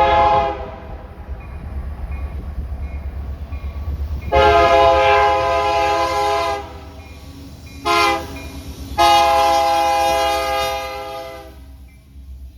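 Locomotive air horn sounding the grade-crossing signal, long, long, short, long: the first long blast ends just after the start, then come a long blast, a short one and a final long one. A steady low rumble of the train runs underneath and fades near the end.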